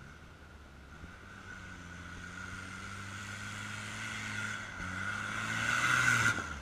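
Engine of a 4x4 off-road vehicle running under load as it climbs a muddy forest track, growing steadily louder as it approaches, then dropping off sharply near the end.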